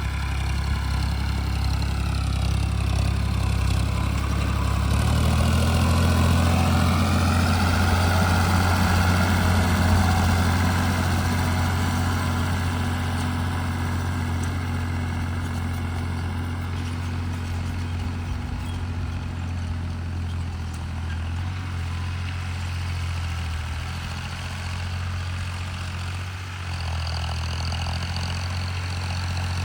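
Tractor engine running steadily under load while ploughing a field. Its note steps up and grows louder about five seconds in, then eases slightly and dips briefly near the end.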